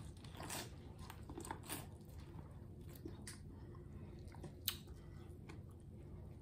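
Biting into a sauce-coated boiled corn cob and chewing it close to the microphone: faint wet crunches and mouth clicks, with one sharper click a little after the middle.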